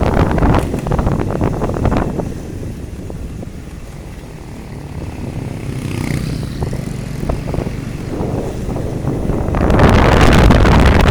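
Street traffic on a road: vehicle engines running with a low rumble and wind buffeting the microphone. It grows louder about nine-tenths of the way in.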